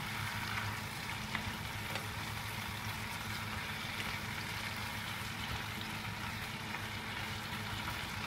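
Sliced tomatoes and onion sizzling steadily in hot oil in a frying pan, stirred with wooden chopsticks, with a couple of faint clicks. The tomatoes are being cooked down until soft.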